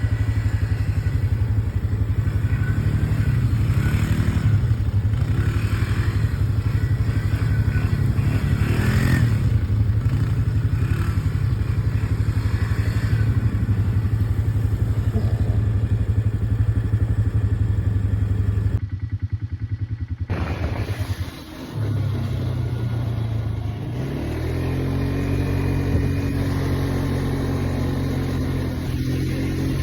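ATV engine running steadily under way. About two-thirds through, the sound changes abruptly and drops in level, then the engine revs up with a rising tone and holds.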